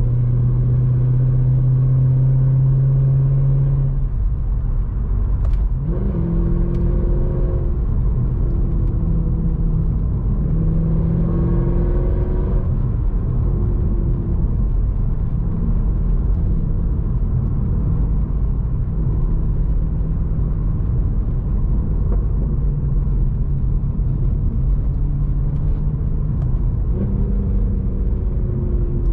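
Mercedes C63 AMG's naturally aspirated 6.2-litre V8 and exhaust heard from inside the cabin while driving. A steady held note for about the first four seconds drops away as the throttle is lifted, then the engine note rises and falls with the throttle, climbing briefly around twelve seconds in and again near the end, over low road rumble.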